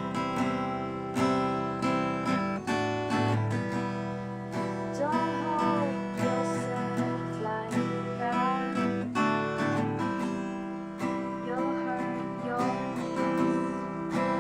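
Acoustic guitar strumming chords in a steady rhythm, with a short gliding melodic line rising and falling over it a few times.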